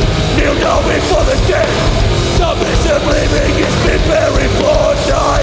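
Live hardcore punk band playing loud, with distorted guitars, bass and pounding drums.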